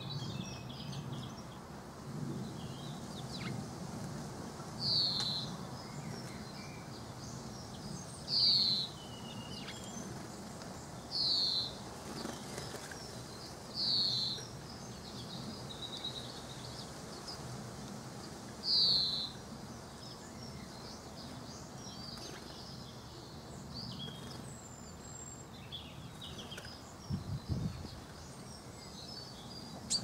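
A bird calling: five loud calls, each a short downward slur, a few seconds apart, with fainter chirps from other birds and a steady low background rumble. A few soft low thuds come near the end.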